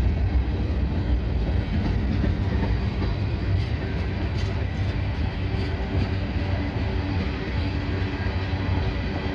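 Cars of a manifest freight train rolling past: a steady heavy rumble of steel wheels on rail, with a few sharp clacks around the middle.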